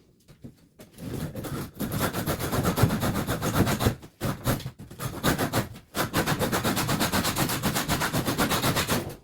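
Rapid, regular mechanical hammering, like a power hammer or chisel tool working on a wall, starting about a second in and pausing briefly twice.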